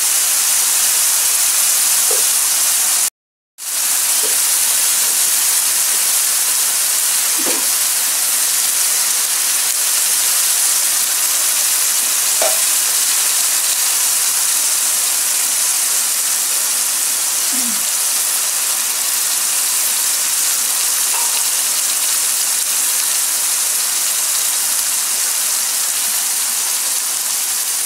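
Balado chili paste sizzling steadily in a wok around two pieces of fried fish as the sauce cooks down toward dry, the sign that the dish is done. The sound cuts out briefly about three seconds in.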